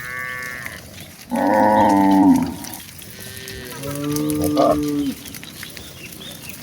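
Cattle mooing: three separate calls, the loudest and longest starting about a second and a half in, the first one higher-pitched.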